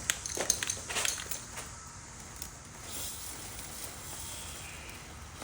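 A few clicks and rattles, then about three seconds in a steady hiss from an aerosol chain cleaner-lube being sprayed onto a dirt bike chain.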